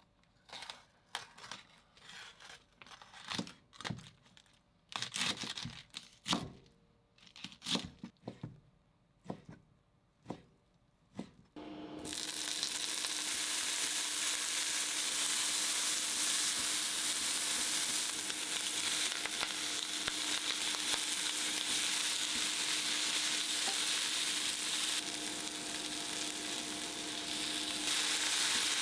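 Kitchen knife cutting spring cabbage on a cutting board, a series of separate cuts for about twelve seconds. Then bacon and spring cabbage frying in oil in a frying pan: a steady, loud sizzle, stirred with chopsticks.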